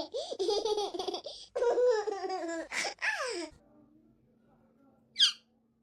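A person laughing hard in high-pitched peals for about three and a half seconds, then stopping. A short sharp sound comes about five seconds in.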